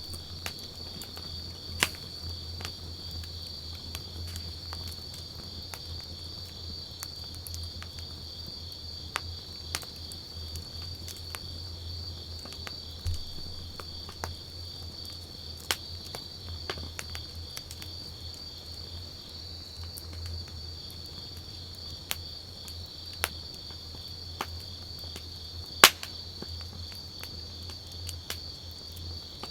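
Wood campfire crackling, with scattered sharp pops and one loud pop near the end, over steady insect chirring and a low steady hum.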